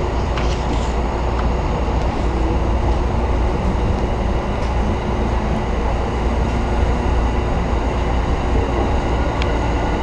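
JR Tokaido Line electric train running along the line, heard from inside the car: a steady rumble of wheels and motors with a faint steady hum and occasional light ticks.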